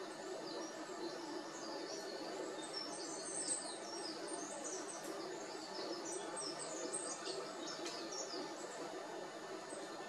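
Small garden birds calling in many quick, high chirps, busiest through the middle, over a steady background noise.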